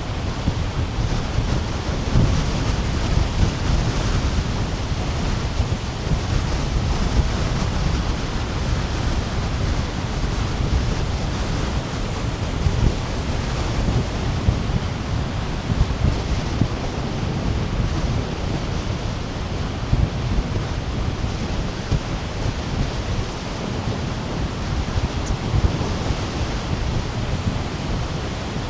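Sea surf breaking and washing up a sandy beach in continuous waves, a dense steady wash of noise that swells slightly now and then, with wind buffeting the microphone underneath.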